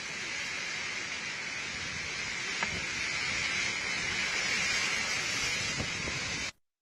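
Steady outdoor noise of strong monsoon wind and heavy rain, with wind buffeting the microphone. It cuts off suddenly just before the end.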